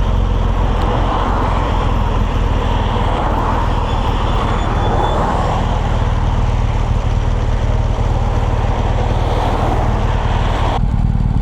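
BMW R1200GS flat-twin engine running steadily while the motorcycle is under way, under a rushing wind and road noise. The rushing noise drops away abruptly near the end while the low engine note carries on.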